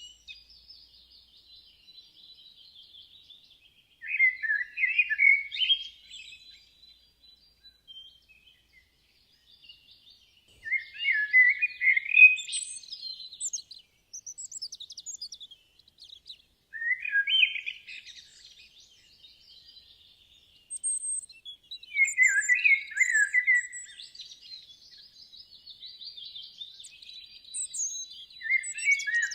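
Songbird singing: louder song phrases come about every five or six seconds, with softer high twittering and chirps between them.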